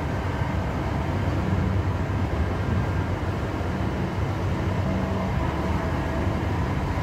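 Cabin noise inside a Class 323 electric multiple unit running at speed: a steady low rumble of wheels on rail with a faint steady whine over it.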